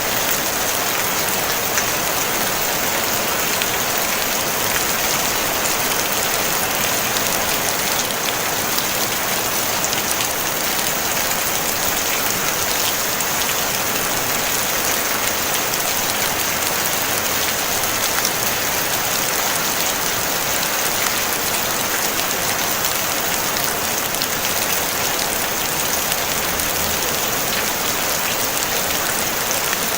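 Steady rain on a tin roof: an even hiss of many fine drops, strongest in the upper range, with no thunder.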